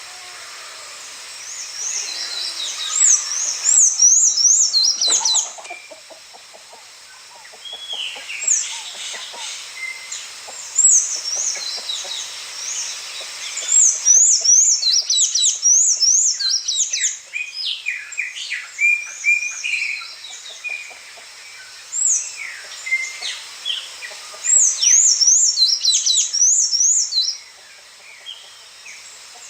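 Songbirds singing: phrases of quick, high, up-and-down chirps, several of them overlapping, coming every few seconds with short quiet gaps between.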